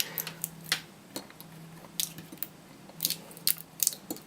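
Irregular sharp clicks and crackles of plastic and metal as a laptop battery pack is pulled apart by hand and its 18650 cells are separated. A faint steady low hum runs underneath.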